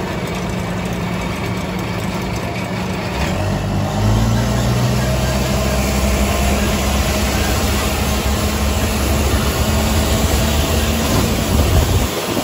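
Engine of an open-air tram running steadily, growing louder about four seconds in as its pitch shifts, with road and wind noise around it.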